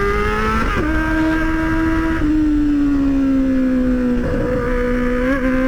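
Motorcycle engine heard from on board while riding: its pitch climbs, drops sharply with an upshift under a second in, then holds and slowly sinks as the bike cruises, over a low rumbling noise.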